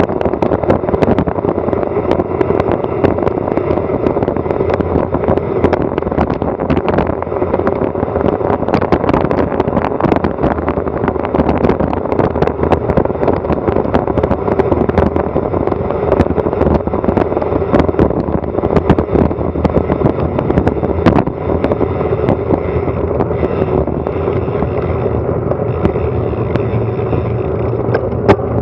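Wind buffeting a Garmin Virb Elite action camera's microphone on a fast bicycle descent: a steady, loud rushing noise with frequent small knocks and rattles.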